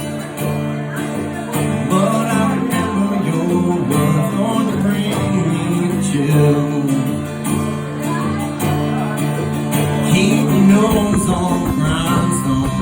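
Country-bluegrass band playing an instrumental break between sung verses, led by plucked acoustic guitar over a steady strummed rhythm.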